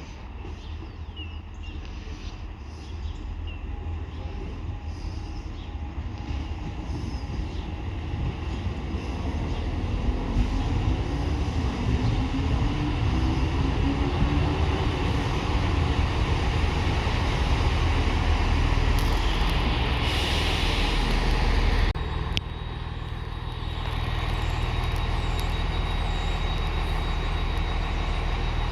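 A train approaching and running past, growing steadily louder, with a hiss a little before the sound changes abruptly to a steady low engine hum.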